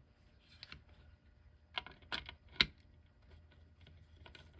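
A few light, separate clicks and taps of small metal parts being handled on a clock movement as its posts are tried, the sharpest about two and a half seconds in.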